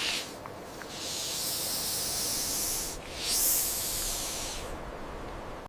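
Snake hissing: a short hiss right at the start, then two long hisses of about two seconds and a second and a half, with a brief break between them.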